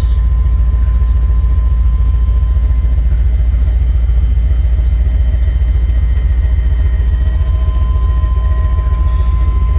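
1979 Chevrolet Corvette C3's small-block V8 idling steadily with an even, fast pulse, warmed up and holding idle after more than ten years of sitting.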